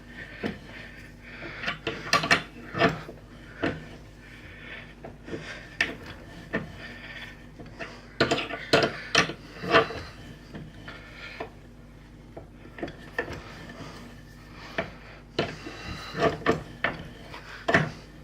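Hand-turned pipe tap cutting threads into an aluminium block, making irregular clicks, creaks and scrapes in groups as the tap wrench is worked round.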